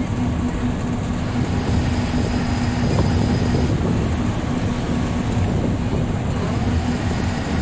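Bus engine running, heard from inside the bus: a steady low rumble with a steady hum over it.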